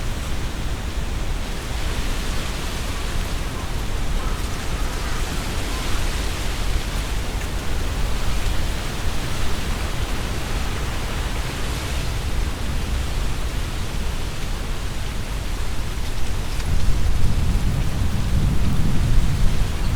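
Strong wind gusting through tree foliage, the leaves rustling in a steady hiss, over a low rumble of wind buffeting the binaural microphone. The rumble grows heavier in the last few seconds.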